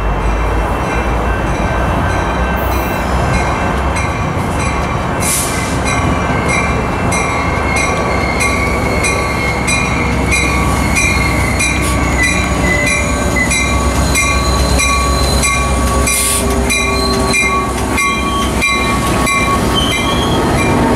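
Coaster commuter train led by its F40PH-2C diesel locomotive rolling into the station and past at low speed, the engine rumbling low, with thin, high wheel-and-brake squeal as it slows.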